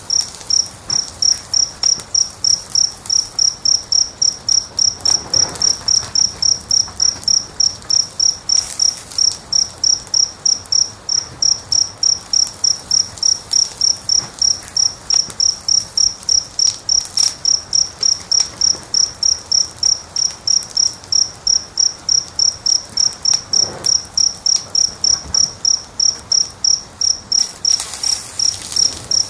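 A cricket chirping steadily, about three short high chirps a second, over a faint background with a few soft crackles of a wood fire.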